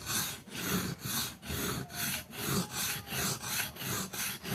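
Knife blade stroked back and forth across a water-soaked whetstone: a steady rhythmic grinding rasp, a little more than two strokes a second.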